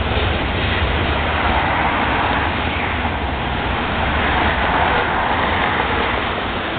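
Loaded freight hopper cars of a rock train rolling past: a steady rumble and rush of steel wheels on the rails.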